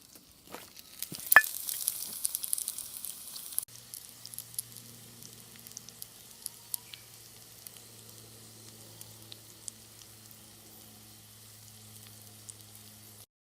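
Gyoza frying in a hot skillet, sizzling and crackling with sharp pops. The sizzle is loud for the first few seconds, then drops suddenly to a quieter steady sizzle.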